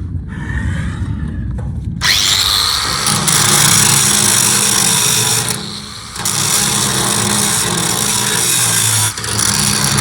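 Angle grinder grinding down fresh welds on a steel bucket. Quieter for the first two seconds, then loud from about two seconds in, with a short break about six seconds in and a brief one near the end.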